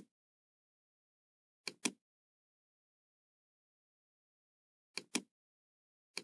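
Computer mouse clicking: two paired clicks about 2 and 5 seconds in, each pair a quick double click, with dead silence between.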